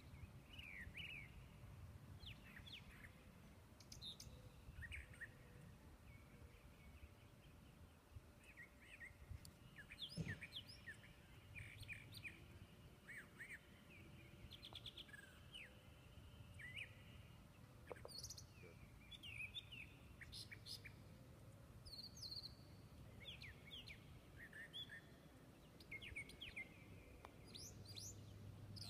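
Faint birdsong: many short chirps and calls from several birds, scattered throughout. A single sharp click comes about ten seconds in.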